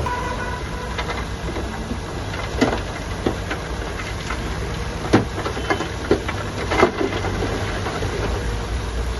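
Heavy construction machinery's diesel engine running steadily, with irregular clanks and knocks over it, the loudest about five and seven seconds in.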